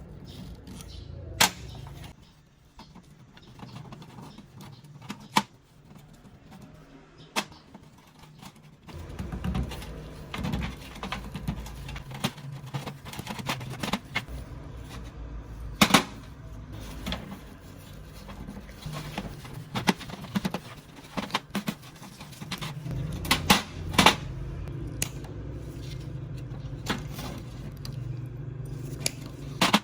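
Hand work on an old metal lamp: scattered sharp clicks and knocks of parts and tools being handled, over a low steady hum that starts about nine seconds in.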